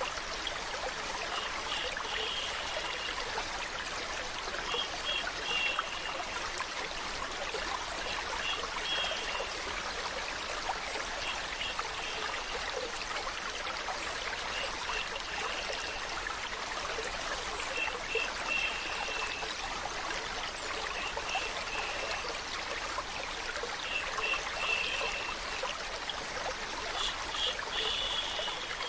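A stream of water running and trickling steadily. Short high chirps recur every one to three seconds over it.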